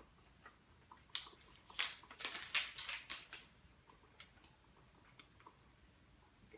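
Plastic candy packaging crinkling as it is handled: a quick, crisp run of crackles for about two seconds, then a few faint ticks.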